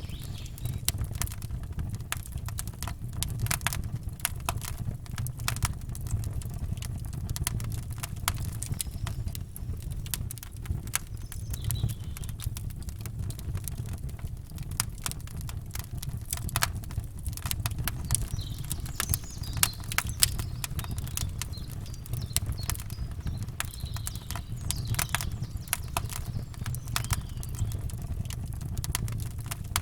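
Campfire crackling, with many irregular pops and snaps over a steady low rumble. Faint bird chirps come in around the middle.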